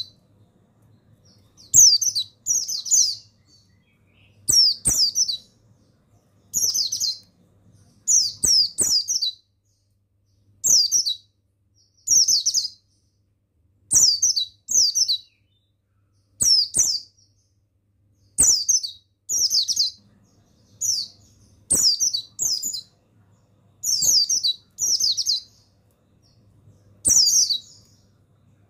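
Pleci buxtoni white-eye song: short, high twittering phrases, each a quick run of falling notes, repeated about every two seconds and often in pairs. A faint click comes at the start of many phrases.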